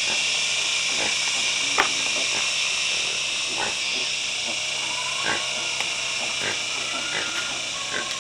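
Pigs grunting in short, irregular sounds, with a few brief higher-pitched calls in the second half, over a steady high hiss.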